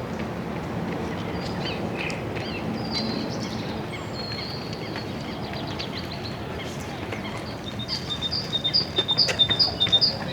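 Birds calling and chirping over a steady background hum of outdoor ambience. In the last couple of seconds one bird repeats a short high note about twice a second, louder than the rest.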